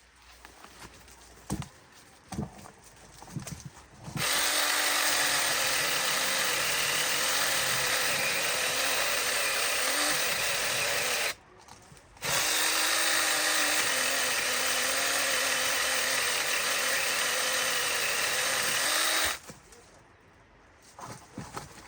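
Chainsaw running under load in two long runs of about seven seconds each, stopping dead for about a second between them, with a few light knocks before the first run.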